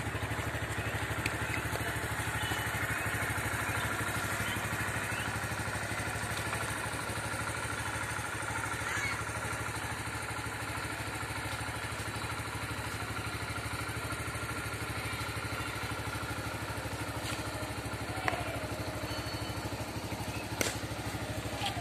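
Runner Dayang Bullet 100cc motorcycle's single-cylinder engine idling steadily, with two sharp clicks near the end.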